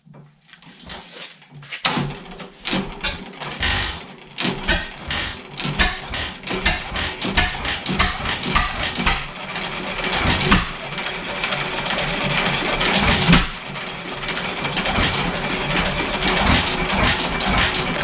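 A 7 hp Stickney hit-and-miss engine being bump-started. About two seconds in, a run of clicks and knocks begins as it is turned over, coming faster until it catches and runs steadily in the second half.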